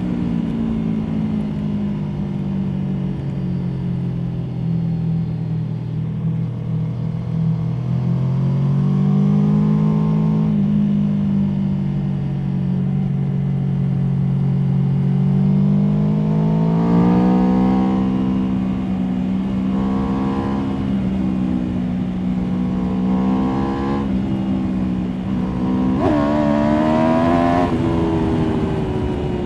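Aprilia Tuono V4 motorcycle's V4 engine heard from the rider's position under way. The engine note falls as the bike slows over the first few seconds and holds steady. It climbs twice as the throttle opens, then rises and falls with throttle changes, with a sharp rev rise near the end before it drops away.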